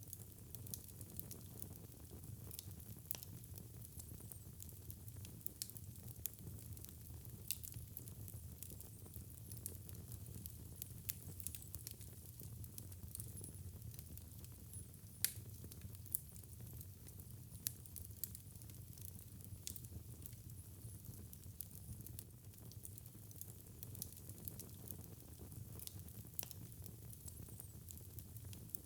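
Wood fire crackling in a fireplace: a steady low rumble of burning with scattered sharp pops and snaps, the loudest about halfway through.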